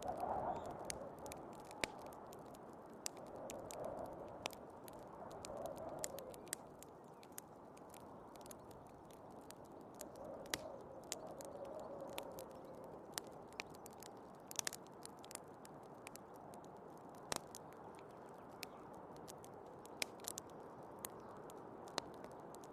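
Wood fire crackling, with irregular sharp pops and snaps, over a steady hiss of storm wind that swells in soft gusts several times.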